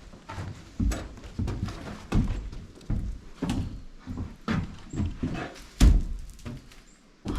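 A string of irregular knocks and thuds, about one or two a second, with the loudest thud near six seconds in.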